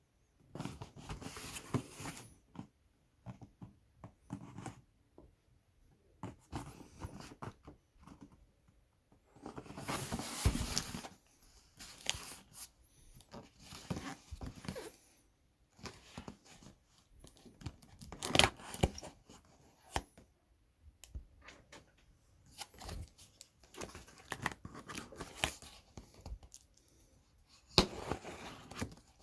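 Packaging being opened and handled by hand: irregular tearing, crinkling and rustling, with a few sharp handling knocks, the loudest about two-thirds of the way through.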